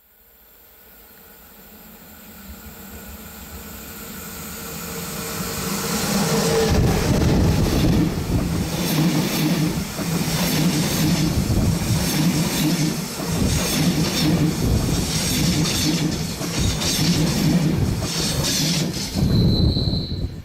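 A train approaching and passing on a mountain railway. The sound swells over about seven seconds into a loud rumble of wheels on rail with a rhythmic clatter, a brief high wheel squeal near the end, then drops away.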